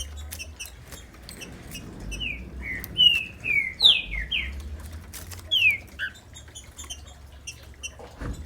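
Green-winged saltator (trinca-ferro) singing a phrase of loud, downward-slurred whistled notes about two seconds in, then a shorter pair of notes near the middle, with faint clicks between.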